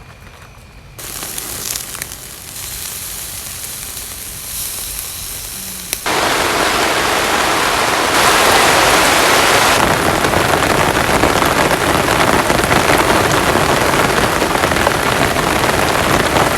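Heavy rain pouring down as a dense, steady hiss. It gets suddenly louder about a second in and again about six seconds in, and stays loud from then on.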